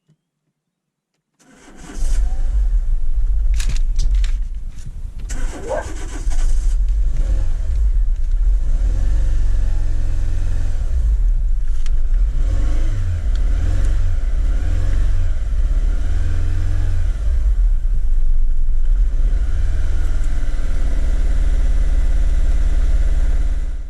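Renault Megane's 1.6 16-valve K4M petrol engine starting about one and a half seconds in and then running. The engine carries a misfire, from a faulty number 4 fuel injector. There is a brief rising sweep a few seconds after the start, and the sound stops abruptly near the end.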